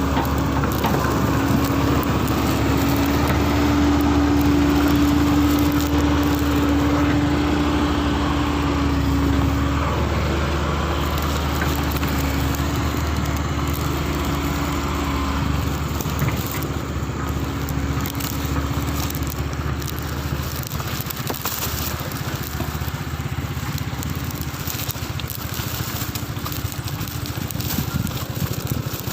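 A vehicle engine running steadily, its hum strongest in the first ten seconds and then easing off, with scattered clicks and knocks later on.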